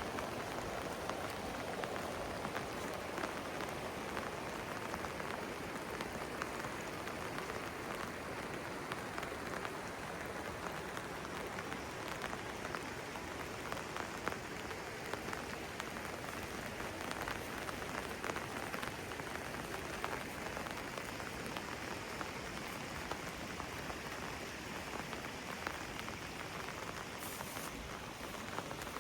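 Steady rain falling, with many single drops ticking on hard surfaces.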